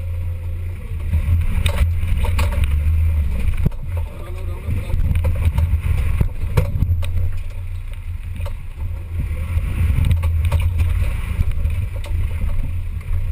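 Off-road 4x4 engine running under load, its deep note rising and easing, with scattered knocks and clunks.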